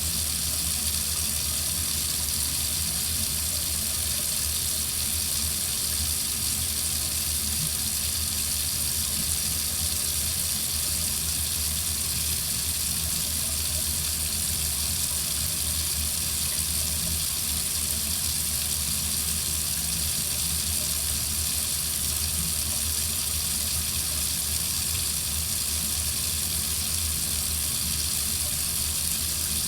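Water running steadily from a faucet: an even hiss of flowing water with a low rumble beneath, unchanging throughout.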